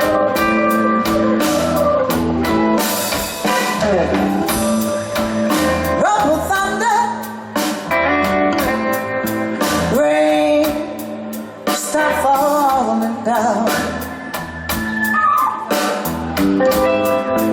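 Live blues band playing with a singing voice and guitar over a steady beat.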